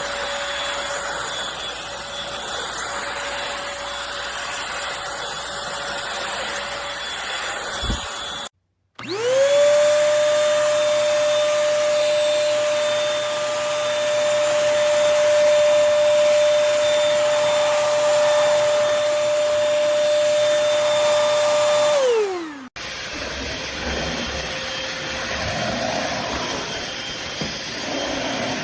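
Eureka Blaze stick vacuum cleaner's motor running with a steady whine. About a third of the way in it switches on, spins up quickly to a loud steady whine, runs for about thirteen seconds, then winds down as it is switched off, and the whine is heard running again near the end.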